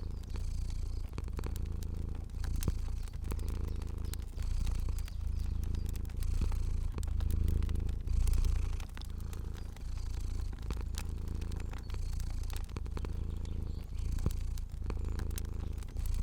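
Domestic cat purring steadily, a low rumble that swells and dips about once a second with each breath in and out. Sparse small crackling pops from a fire sit over it.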